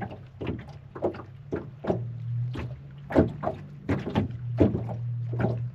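Wind-driven waves slapping against a boat hull in quick irregular knocks, about two or three a second, over a steady low hum.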